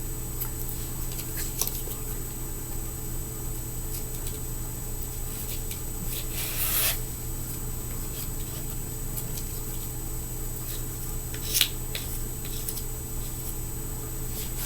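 Quiet handling sounds of a fingerboard and its grip tape: a few faint clicks, a short scrape about halfway through and a sharp click near the end, over a steady low hum.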